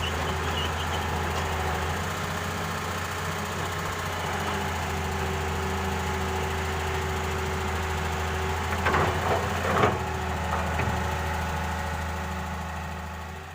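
Excavator's diesel engine running steadily with a deep, even hum. A couple of short clanks come about nine to ten seconds in, and the sound fades out at the end.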